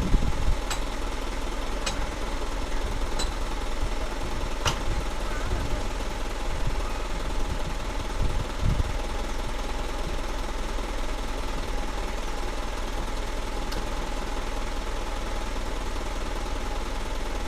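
Dump truck's diesel engine running steadily with a low, even rumble, with a few sharp clicks in the first five seconds.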